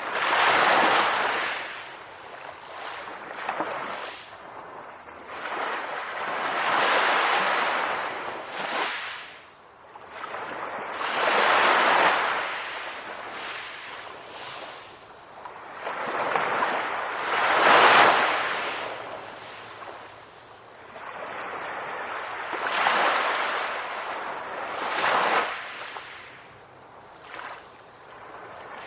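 Ocean waves breaking on a shore, each wave a rushing surge that swells and falls away, about one every five to six seconds, with the loudest breaks about a second in, near the middle and about two-thirds through.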